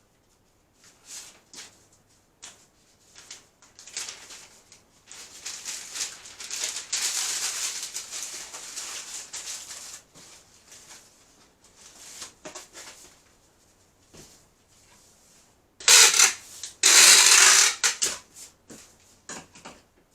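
Dry rustling and scraping of things being handled, coming in short bouts. It builds into a longer stretch of rustling about six seconds in, with a loud burst about sixteen seconds in.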